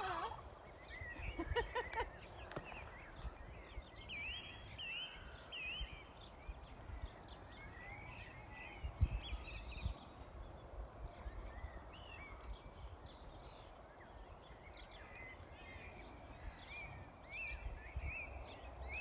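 Small birds chirping and calling in the background over a low rumble, with a single thump about nine seconds in.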